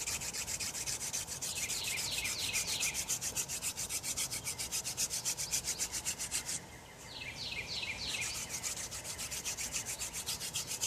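Hand-drill friction fire: a wooden spindle spun back and forth between the palms, grinding into a wooden fireboard. It makes an even rasping of wood on wood, about six strokes a second, with a short pause about two-thirds of the way through, just before the board starts to smoke.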